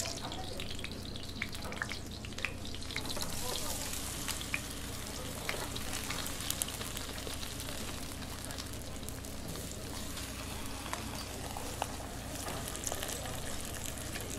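Food sizzling as it fries in hot oil, a steady hiss with occasional sharp clicks.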